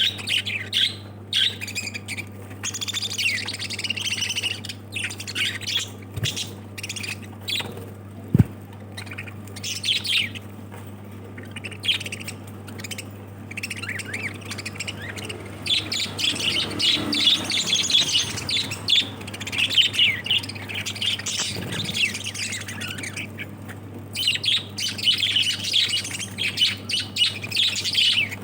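Small pet parrots chattering and squawking in bursts of shrill chirps, over a steady low hum, with one sharp click about eight seconds in.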